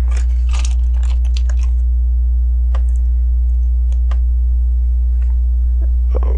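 Small plastic LEGO bricks clicking and rattling as they are handled and fitted together: a quick cluster of clicks in the first second and a half, then a few single clicks spaced out. A steady low electrical hum runs underneath and is louder than the clicks.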